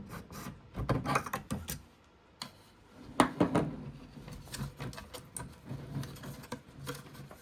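Hard plastic parts clicking, knocking and scraping as a piece is forced into a tight fit in a 3D-printed stand. The knocks are irregular, with a cluster about a second in and the loudest knock about three seconds in.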